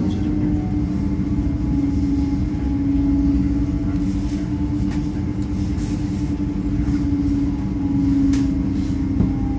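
Running noise heard from inside a PESA Elf electric multiple unit in motion: a steady rumble of the train on the rails with a low hum that wavers slightly in pitch.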